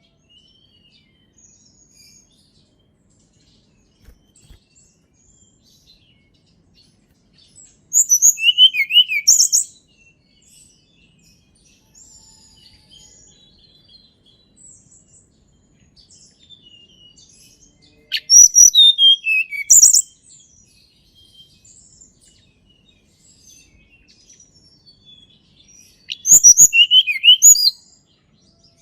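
Tledekan gunung singing: three short bursts of song about nine seconds apart, each a quick run of high notes sliding downward. Faint chirps sound between the bursts.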